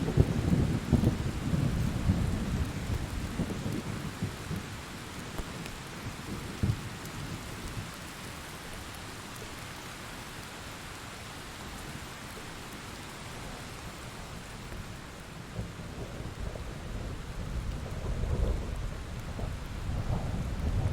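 Heavy rain falling steadily through a thunderstorm, with a roll of thunder rumbling at the start that dies away after several seconds, and another building again near the end.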